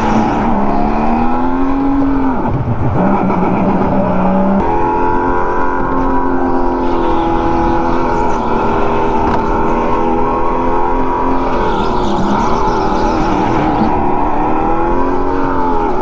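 Racing go-kart's motor whining under power. Its pitch drops about two and a half seconds in and again near the end as the kart slows for corners, then climbs back as it accelerates.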